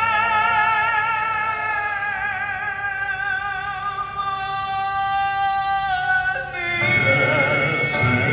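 Gospel quartet song performed live: a long held sung note with vibrato over instrumental accompaniment. About six and a half seconds in, the held note gives way and the accompaniment swells into a fuller, louder chord.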